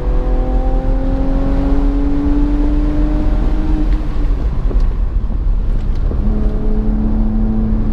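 BMW's engine heard from inside the car at full throttle on track, its pitch climbing steadily for about four seconds as it pulls through a gear. It then drops off as the driver lifts, and settles into a lower steady note near the end, over constant wind and road rumble.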